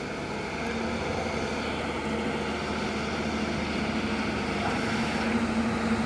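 Diesel engine of heavy machinery running steadily, a continuous drone with a held low tone, growing slightly louder over the seconds.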